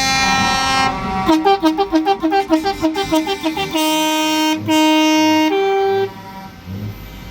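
A truck's musical air horns play a tune. A held note is followed by a fast run of alternating notes, about five a second, then two long notes and a short higher one, and the horn stops about six seconds in.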